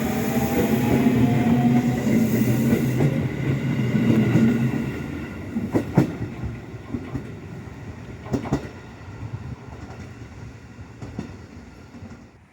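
A train running past, its loud rumble fading away after about five seconds, with a few sharp clicks as it recedes.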